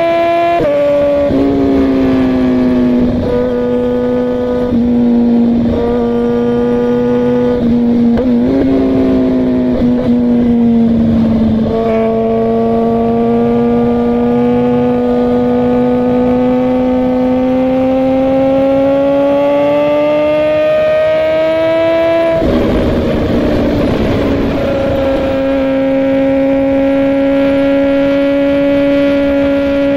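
Suzuki GSX-R 1000's inline-four engine running at steady cruising revs under way. The note steps down about a second in, climbs slowly through the middle, breaks into a brief rush of noise a little past twenty seconds, then settles to a steady note again.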